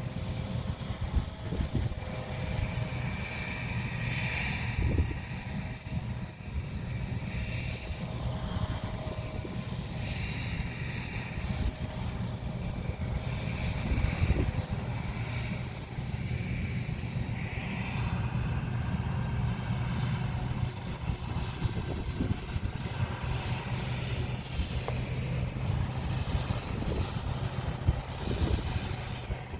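Heavy diesel harvest machinery running, a steady deep engine drone with a whirring that rises and fades above it.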